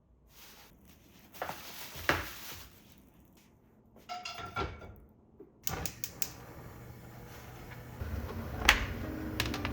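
Kitchen handling noises: a scatter of light knocks, clicks and clatters, the sharpest knock near the end.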